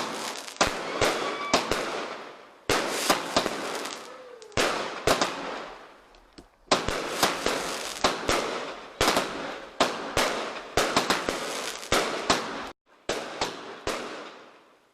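Consumer firework display going off: a rapid string of sharp bangs from bursting shells, each trailed by a crackling hiss that fades away. Several times the sound cuts off abruptly, then resumes with a fresh bang.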